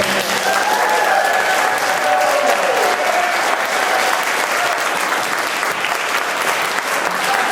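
Audience applauding, with a voice cheering over the clapping in the first few seconds.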